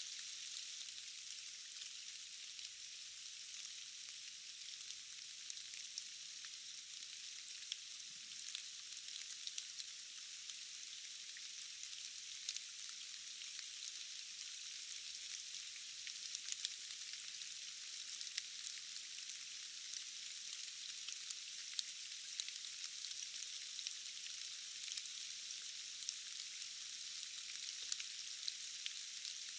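Steady rain falling in a forest: an even hiss of rain with a dense patter of small drop ticks, thin and hissy with no low rumble.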